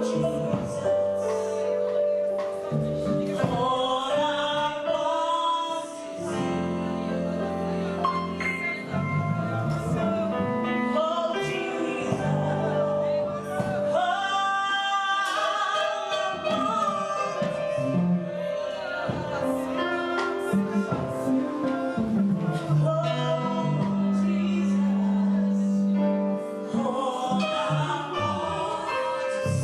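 Gospel music with singing over sustained accompaniment.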